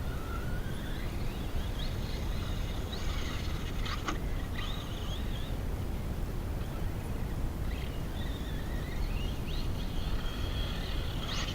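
An RC truck's Leopard 4082 2000 kV brushless motor whining. Its pitch rises again and again as it accelerates, then drops off. A couple of sharp knocks sound, one about four seconds in and one near the end, over a steady low rumble.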